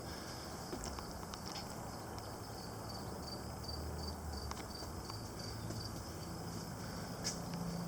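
Insects chirping in a steady, evenly pulsed high trill of about three chirps a second, over a low outdoor background rumble.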